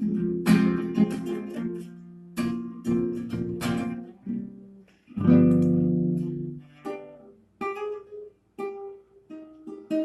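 Acoustic guitar strumming chords. Several quick strums come in the first few seconds, then one chord about five seconds in is left to ring. After that the strums become sparser and shorter.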